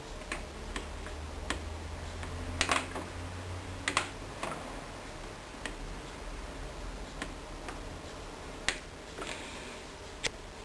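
Scattered sharp clicks, roughly one every second or so and irregularly spaced, over a low steady hum.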